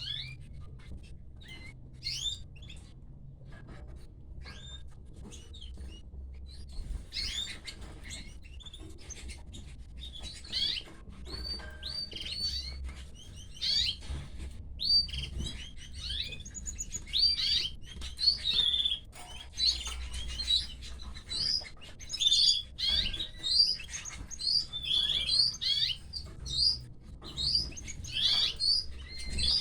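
Canaries chirping: a few scattered short high chirps, then from about seven seconds in a busy, continuous run of them.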